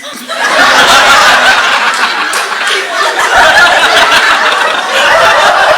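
Live audience laughing loudly and at length, a dense crowd laugh with no single voice standing out.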